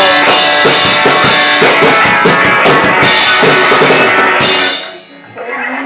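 Live rock band playing an instrumental passage, with guitars and a drum kit keeping a steady beat. Near the end the band cuts out almost entirely for about a second, a brief break before the next chorus line.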